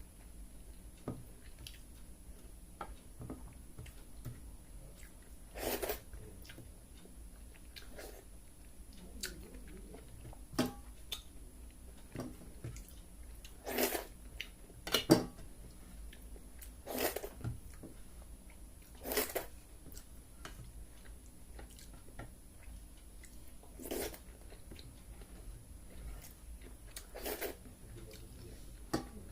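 Close-miked eating: chewing with sharp, crunchy bites every few seconds, irregularly spaced.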